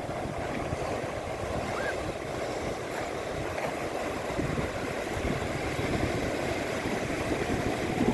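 Strong wind buffeting the microphone in a steady rumble, over the rush of big storm waves breaking on the shore.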